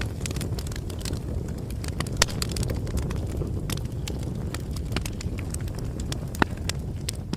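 Bonfire crackling: a steady low rumble from the flames with frequent small crackles, and two louder pops, about two seconds in and again about six seconds in.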